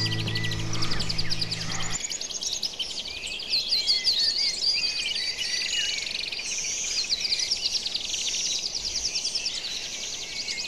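Many small birds chirping and twittering in a dense, continuous chorus; a music track underneath stops abruptly about two seconds in.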